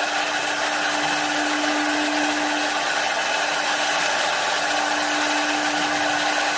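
CNC woodworking lathe running steadily: a constant motor tone under an even rushing noise that does not change.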